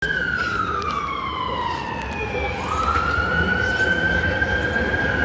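Electric metro train's motor whine over a low running rumble: the whine falls steadily in pitch for about two and a half seconds, then jumps up and climbs slowly to hold a high steady note.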